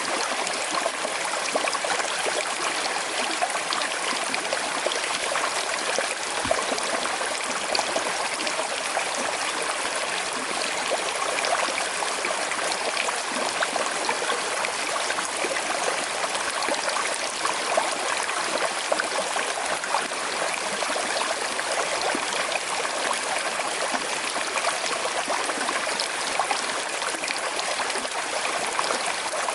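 Small river flowing with a slight current over stones, a steady rush with continual small trickles and splashes.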